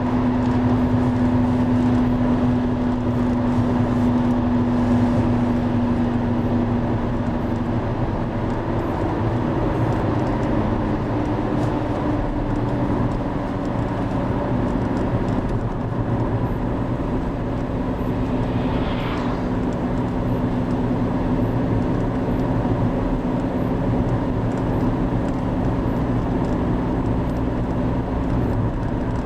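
Driva river in heavy flood: a steady, loud rush of fast, high water, with a low steady hum running under it.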